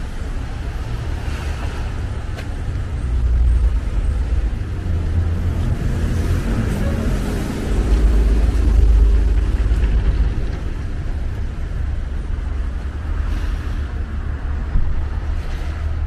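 Cars passing on a snowy, slushy street: a steady traffic hiss over a heavy low rumble, swelling twice as vehicles go by, the louder one about halfway through.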